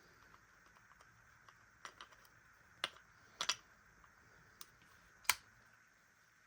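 Small hard objects clicking and tapping: about seven sharp clicks at irregular intervals, the loudest a little over five seconds in, over a faint steady hum.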